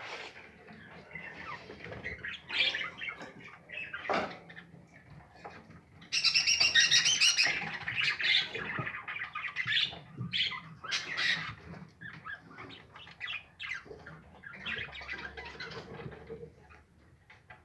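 Budgerigars chirping and squawking in short, scratchy calls, with a louder stretch of dense high chattering about six seconds in that lasts roughly two seconds.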